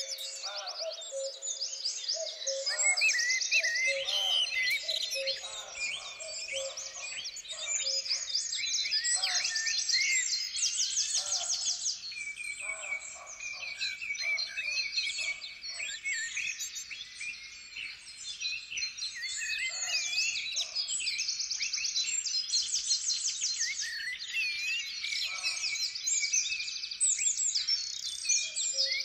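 Dense chorus of many songbirds singing together, overlapping chirps, rapid trills and short whistles with no break, some lower notes mixed in.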